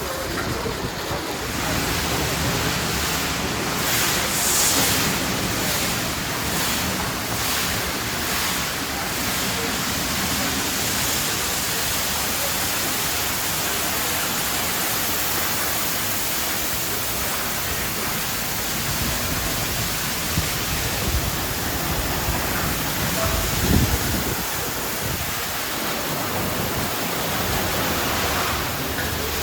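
Sonny's express tunnel car wash running, a steady loud rushing like water spray or air, with a pulsing hiss in the first few seconds and one brief low thud late on.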